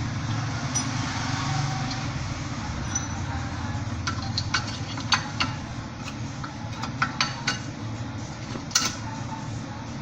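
A string of light metallic clicks and clinks, about a dozen between the middle and near the end, the sharpest just before the end, over a steady low hum.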